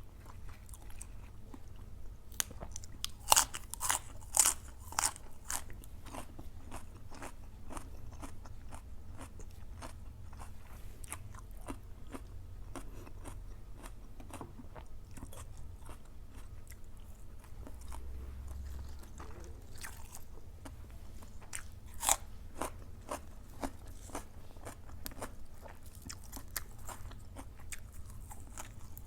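A person chewing and crunching food close to the microphone, with a run of loud crunches a few seconds in and another sharp one about two-thirds of the way through.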